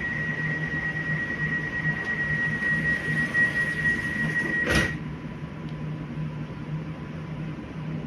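Train running, heard from inside: a steady high whine lasts about five seconds and stops with a single sharp clunk, over a low steady hum.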